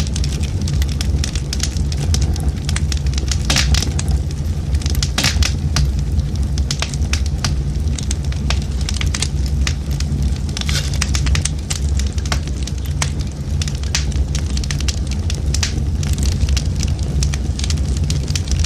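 Firewood burning in a traditional Korean agungi firebox: irregular sharp crackles and pops over a steady low rumble.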